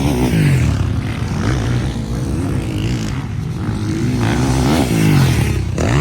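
Motocross bikes racing, their engines revving up and down as the riders work the throttle through the track. Several engines overlap, each pitch rising and falling.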